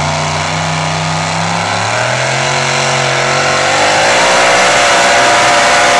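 Two-wheel-drive pulling truck's engine at high revs during a sled pull, its pitch climbing and getting louder about halfway through.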